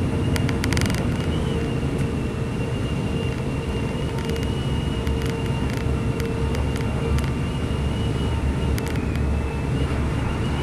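British Rail Class 185 diesel multiple unit under way, heard inside the carriage: a steady low rumble from the underfloor diesel engine and the wheels on the rails, with a steady high whine. Short bursts of clicking come a few times, about half a second in, around five seconds in and near the end.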